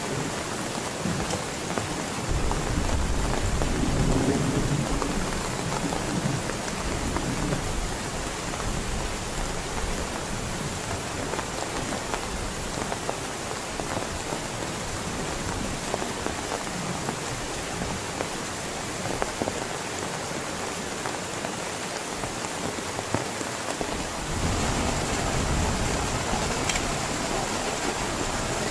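Heavy rain falling steadily, with a low rumble of thunder swelling about three seconds in and again near the end.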